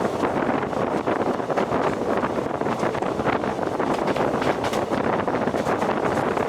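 Passenger train coaches running on the rails: a steady, dense rumble and rattle of wheels and carriages, with wind buffeting the microphone.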